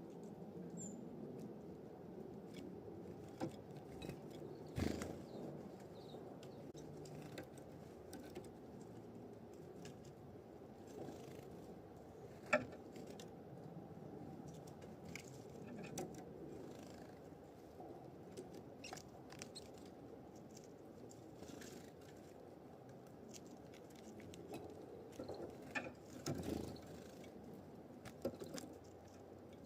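Faint low background hum with scattered small clicks and taps, a sharper click about twelve seconds in.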